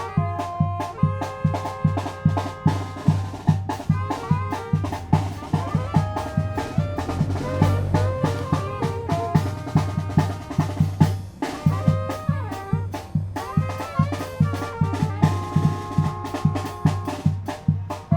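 Tamborazo band playing: brass carrying a melody over a steady beat of bass drum and snare.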